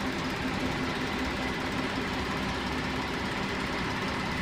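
Steady idling engine sound, even and unbroken, with a thin high whine over it.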